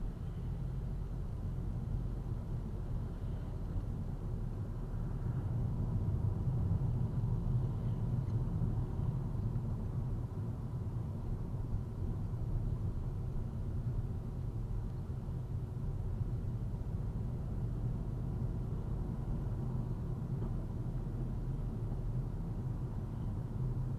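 Car driving: a steady low rumble of road and engine noise, swelling slightly a few seconds in.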